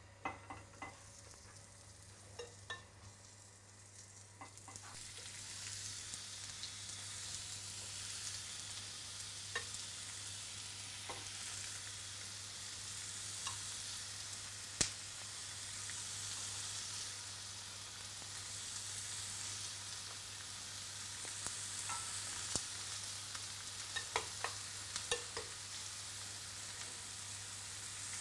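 Oil-marinated vegetable pieces sizzling on a hot ridged grill pan as they are laid in one by one, with light taps and clicks as each piece goes down. The sizzle builds from about four seconds in and then holds steady.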